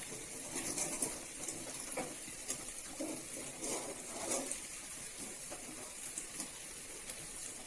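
Spice paste sizzling in hot mustard oil in a kadai as it is fried down until the oil separates, with a spatula scraping and tapping the pan every so often.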